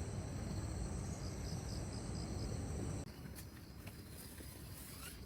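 Insects, crickets or similar, calling in a steady high trill with a pulsing chirp about three times a second, over a low rumble of wind on the microphone. Both stop abruptly about three seconds in, leaving quieter outdoor ambience with a few faint clicks.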